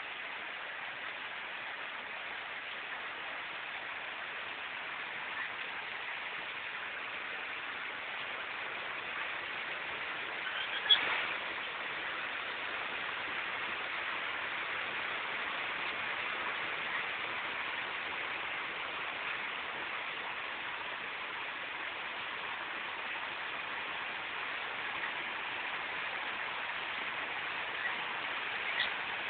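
Heavy rain falling steadily on a concrete courtyard and plant leaves, an even hiss, with one sharp click about eleven seconds in and a smaller one near the end.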